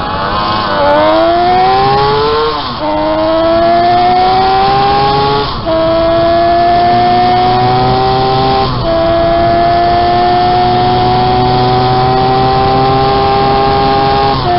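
The home-built 195cc three-cylinder engine of a Gillette special racing motorcycle, heard on board under hard acceleration. The pitch climbs steadily in each gear and drops sharply four times as it is shifted up, the last shift near the end.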